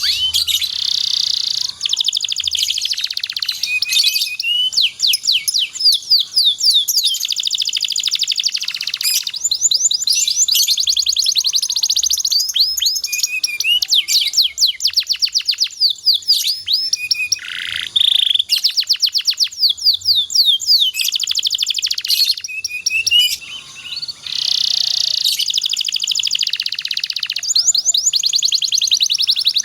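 Domestic canary singing a long song of fast rolling trills and quick sweeping notes, high-pitched and nearly unbroken, with brief pauses before each new phrase.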